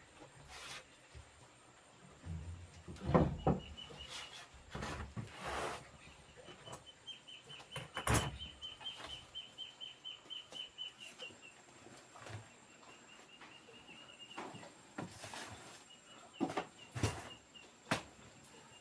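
A high, rapidly pulsed chirping trill from a small creature, an insect or bird, comes and goes in runs of a few seconds. Scattered knocks and handling noises are heard throughout, the loudest about three seconds in and about eight seconds in.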